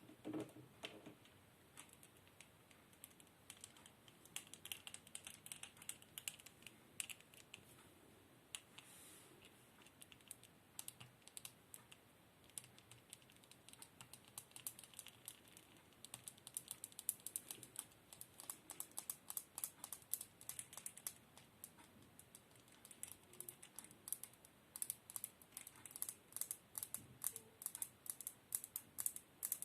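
Soft, quick tapping and clicking in irregular runs, like fingers typing, growing denser and quicker in the second half.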